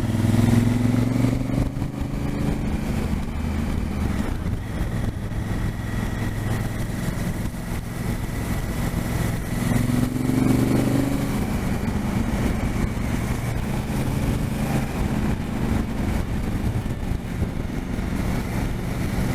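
Twin-cylinder adventure motorcycle engine running at road speed, with wind and road noise; about ten seconds in the engine note rises briefly as the bike accelerates, then settles.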